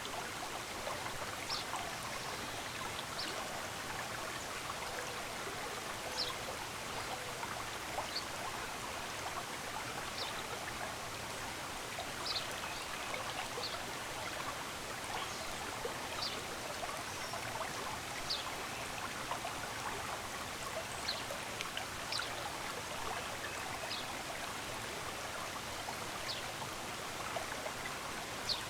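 A small stream running steadily, with short high bird chirps every second or two.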